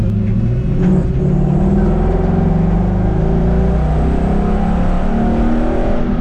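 Ford 5.0-litre Mustang V8 in a 1960 Ford F100 pickup, accelerating on the road, its engine note climbing in pitch.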